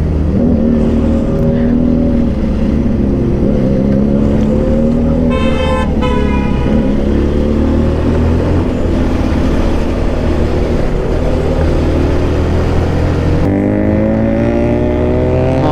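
Benelli motorcycle engine pulling along a winding hill road, its pitch sagging and rising again with the throttle and climbing sharply near the end. A horn sounds briefly about five and a half seconds in.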